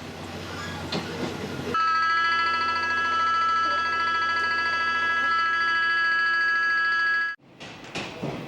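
A loud, steady signal tone of several pitches sounding together, held for about five and a half seconds and then cut off abruptly, typical of a railway warning signal at a train or station; before it, the rumble of a train running.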